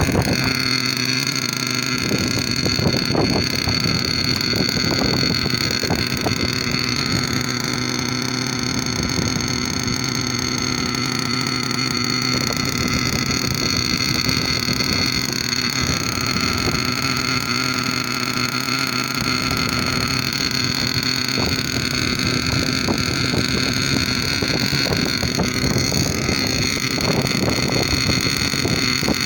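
Alpha Racing .28 nitro engine of a Kyosho Inferno MP9 TKI4 RC buggy running, a continuous buzz that holds mostly steady, with small rises and falls in pitch.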